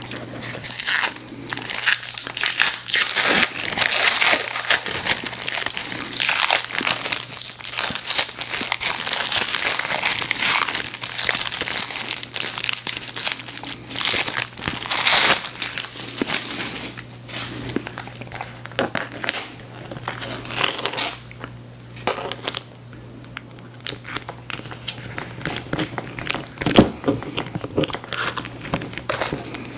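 Candy wrapper packaging crinkling and tearing close to the microphone. The crackling is dense at first and thins out in the last third.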